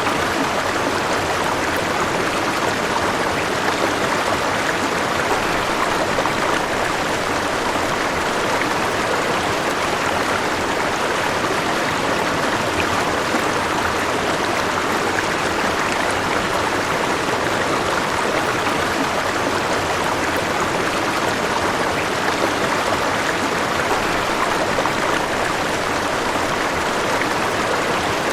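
A river flowing over rocks: a steady, even rush of water with no change in level.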